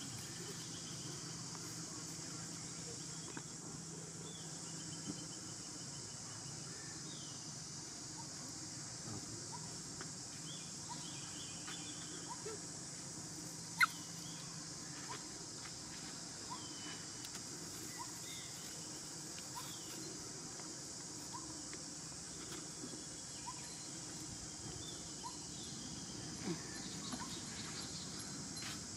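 Outdoor ambience: faint, short bird calls repeating over a steady high hiss, with one sharp click about fourteen seconds in.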